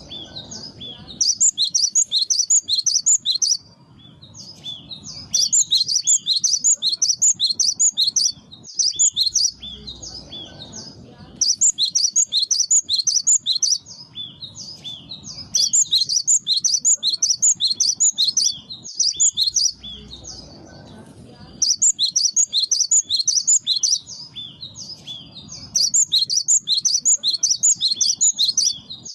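Cinereous tit (gelatik batu) singing loud, fast runs of repeated high notes. It sings about six phrases of two to four seconds each, with short pauses between them.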